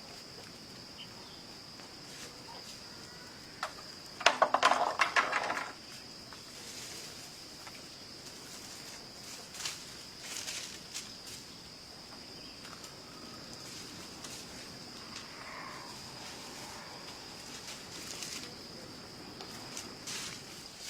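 Insects chirring, a steady high drone, with a loud burst of rapid rattling clicks lasting about a second and a half, about four seconds in. Scattered knocks follow.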